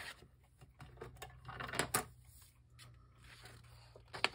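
Paper and a tear ruler being handled on a glass craft mat: soft rustling with small scattered taps, a brief scrape just before two seconds in and a sharp tap near the end.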